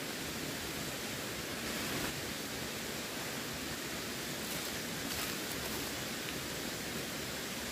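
Running water rushing steadily, an even, unbroken wash of noise with a few slightly brighter splashy moments.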